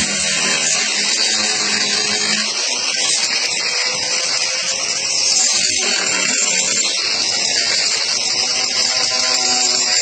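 Angle grinder fitted with a Saburtooth carving wheel grinding into wood, a loud steady hiss that holds without a break. The wheel is worn, missing about a third of its teeth.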